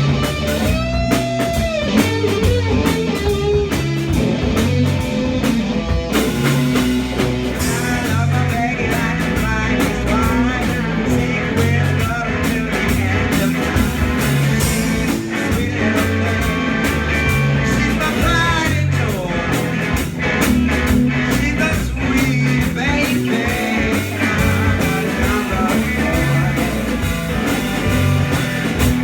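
Rock band playing live, with electric guitar over bass and drums at a steady beat.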